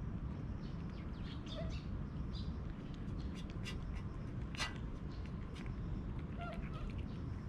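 Two stray cats eating, with repeated short, sharp chewing clicks over a steady low background rumble.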